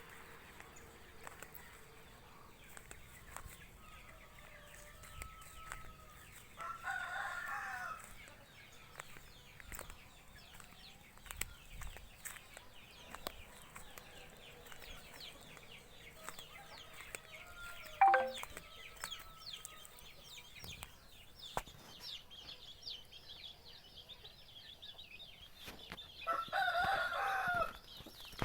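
A rooster crowing twice, each crow short, about seven and twenty-seven seconds in, over faint chirping of small birds. A single sharp click about eighteen seconds in.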